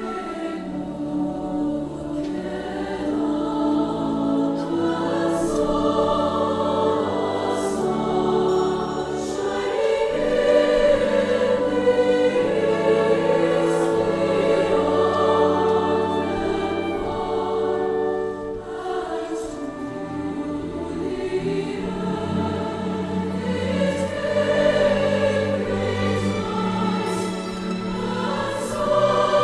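Vocal ensemble singing in choral harmony, several voice parts together.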